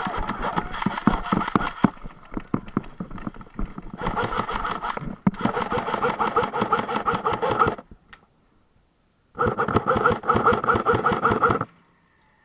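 Airsoft gun firing full-auto in long bursts: a fast rattle of shots over a motor whine. The firing comes in three runs, the last two stopping sharply, with a short silence between them.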